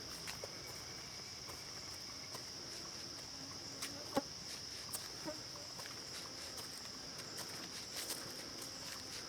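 Steady high-pitched drone of insects, with scattered light clicks and steps of people walking, one sharper click about four seconds in.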